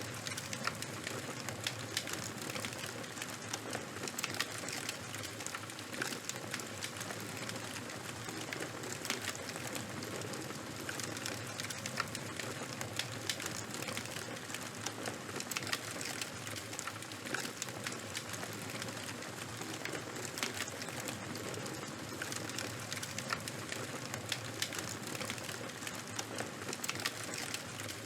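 Charcoal and wood fire crackling: a steady hiss with frequent sharp pops and snaps scattered throughout.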